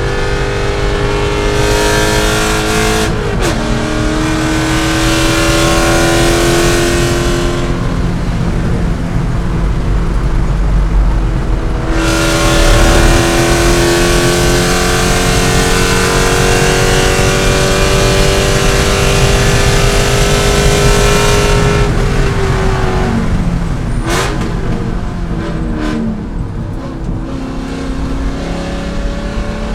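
C5 Corvette V8 race engine being driven hard. It accelerates with an upshift about three seconds in and eases off from about eight seconds. From about twelve seconds it pulls at full throttle with the pitch climbing for roughly ten seconds, then drops back with quick downshift blips for a corner before it accelerates again near the end.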